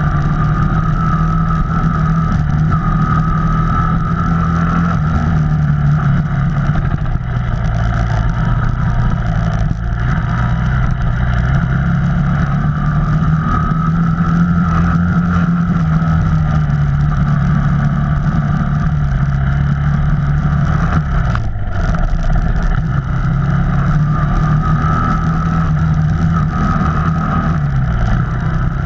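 An off-road vehicle's engine running steadily, its pitch drifting gently up and down with the throttle.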